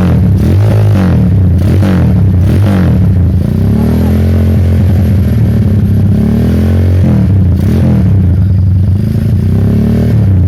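Motorcycle engine revved through a DOS Muffler aftermarket racing exhaust. The pitch rises and falls with several short throttle blips and one longer held rev in the middle.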